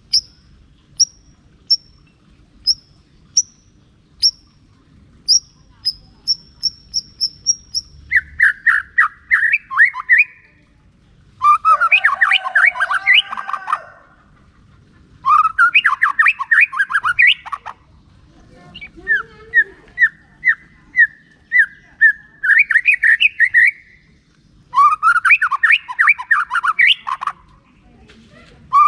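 White-rumped shama singing: first a string of short, high single notes about every half second, coming faster toward the end of the string, then loud bursts of rapid song phrases, each about two seconds long, with short pauses between them.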